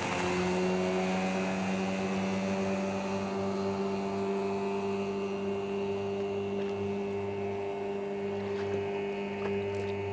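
15 hp outboard motor driving a small inflatable boat, running at a steady speed after a brief rise in pitch at the start.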